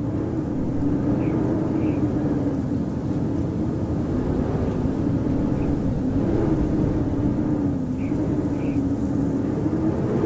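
Blizzard wind blowing steadily with a low howl that slowly wavers up and down in pitch.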